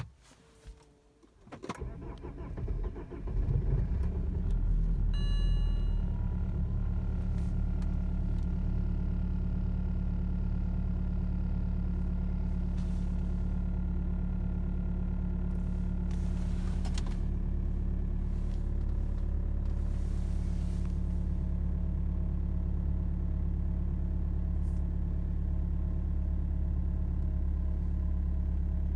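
BMW E91 320d's 2.0-litre four-cylinder diesel cold-started: a brief crank, catching about two seconds in, then settling into a steady idle.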